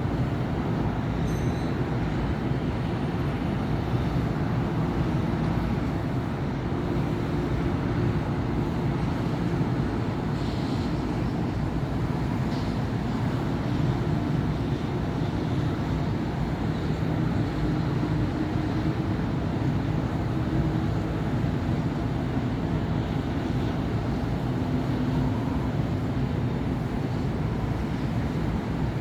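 City avenue traffic: a steady mix of cars and buses passing, a continuous low rumble of engines and tyres with faint engine drones rising and fading.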